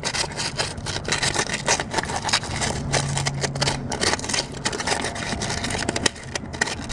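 Sandpaper rubbed back and forth by hand on the cast-iron block of a Pontiac 400 engine in quick, scratchy strokes, sanding the casting numbers so they can be read.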